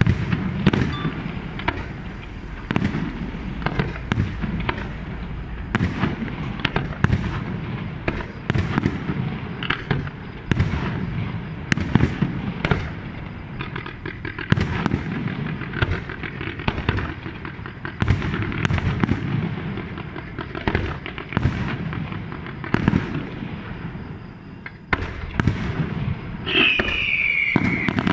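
Fireworks display: aerial shells bursting in quick succession, a steady run of sharp bangs over a low rumble. Near the end a firework whistles, falling in pitch.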